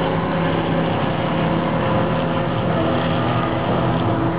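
Car engines idling steadily, a constant drone with no revving.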